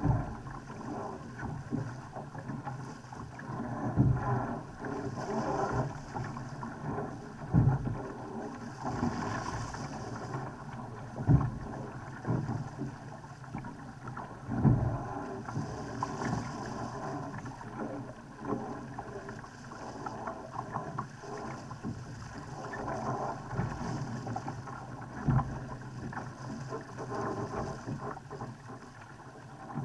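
Laser dinghy hull slapping into waves with a heavy thud every few seconds, over the steady rush of water along the hull.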